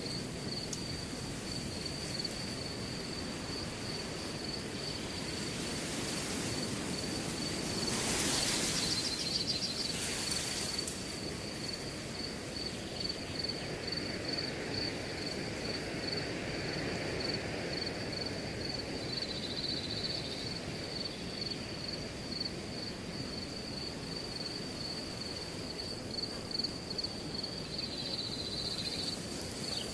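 Crickets chirping in a steady, rapid high-pitched pulse over the low rush of wind through grass. There is a louder, hissing rustle from about eight to eleven seconds in.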